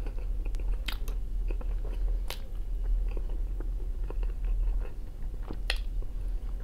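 Close-up chewing and mouth sounds of a person eating fried potatoes and bread, with a few sharp clicks, some from the fork on the plate, over a steady low hum.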